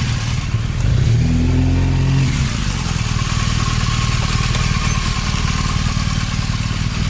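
Suzuki Hayabusa GSX-1300R motorcycle's inline-four engine running, with a brief swell in revs about a second in, then a steady low engine note.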